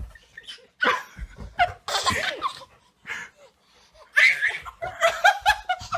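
Human laughter in three bursts, the last a run of quick repeated giggles lasting about two seconds.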